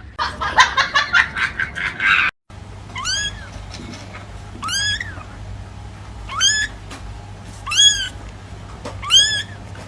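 A cat meowing five times, short rising-and-falling calls about one every second and a half, after a rapid stutter of short sounds in the first two seconds.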